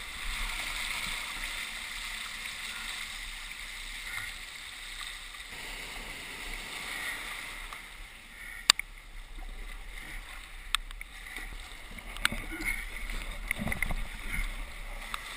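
Fast tidal ebb current rushing and gurgling past a small boat on the water, a steady hiss, with a few sharp clicks in the second half.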